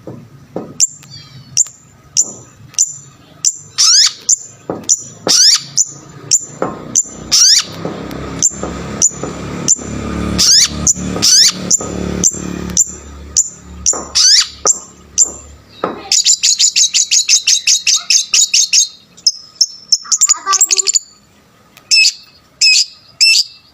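Long-tailed shrike (cendet) singing: a run of sharp, high, falling calls, one to two a second, then a rapid high trill of about three seconds two-thirds of the way in, followed by varied short notes. A low rumbling noise runs under the calls in the middle part.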